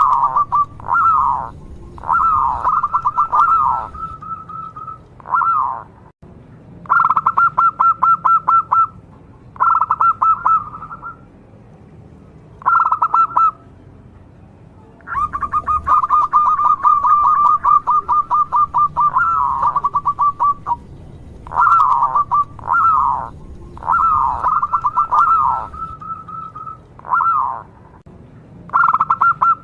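A local zebra dove (perkutut) singing in repeated phrases of fast, pulsed cooing notes on one pitch, some phrases with quick falling notes, with short pauses of a second or two between phrases.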